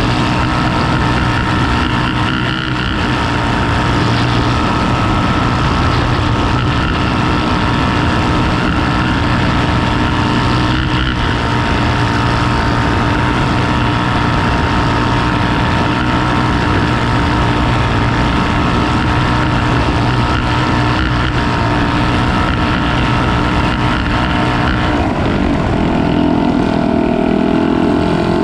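Canal boat's engine running steadily at speed, a loud continuous hum; its note changes near the end.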